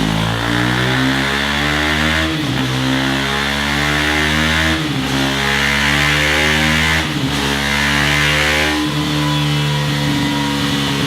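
KTM Duke 390's single-cylinder engine running through a Scorpion Serket Taper exhaust, held at steady revs, with a brief dip in the note three times, about every two and a half seconds.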